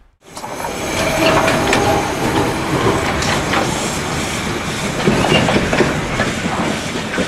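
Narrow-gauge forestry railway train rolling, its wheels clicking over the rail joints with brief squeals from the wheels. The sound starts abruptly at a cut, just after the start.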